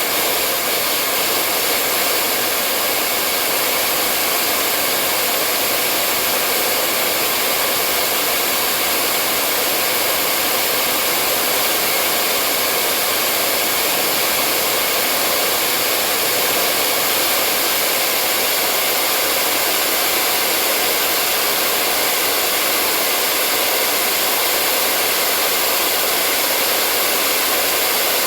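Hair dryer blowing steadily, a constant rushing of air over a motor hum with no change in pitch or level.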